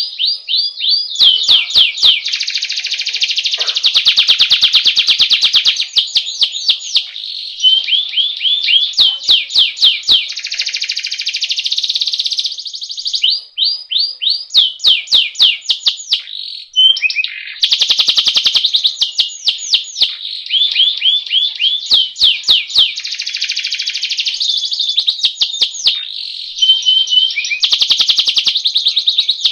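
Domestic canary singing a continuous, high-pitched song of fast rolling trills and quick repeated sweeping notes ('roll' song), with brief breaks about halfway through.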